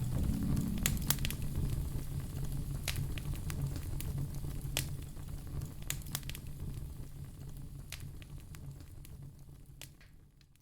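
Wood fire burning in a fireplace, crackling with scattered sharp pops over a low steady rumble, fading out near the end.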